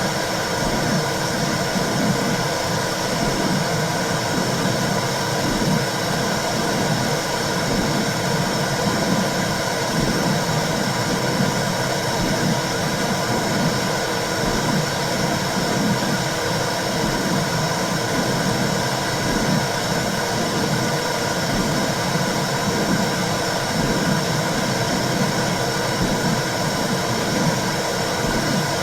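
Womb sound for calming babies: a steady rushing, hissing noise, heaviest in the low range, with a low whooshing that swells and fades in uneven pulses.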